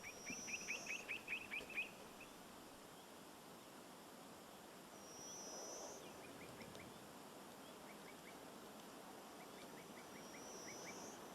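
Small wild birds calling: quick runs of short sharp chirps, the loudest run of about eight near the start, and a high thin buzzy trill heard three times.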